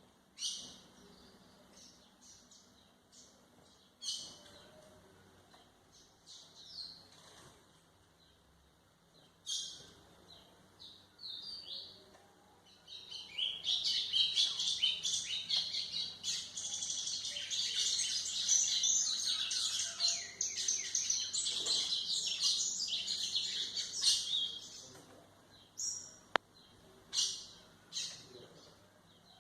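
White-throated seedeater (golinha) singing: short high chirped phrases a few seconds apart, then a long, fast, continuous twittering song through the middle, then short phrases again near the end.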